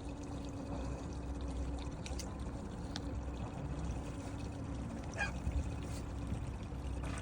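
Water trickling and splashing against a fishing boat's hull, over a low steady hum with a few faint clicks.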